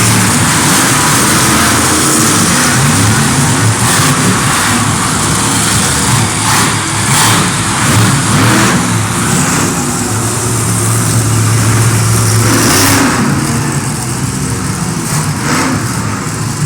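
Monster truck engine running hard and revving, holding a steady high note for a few seconds past the middle, then easing off near the end.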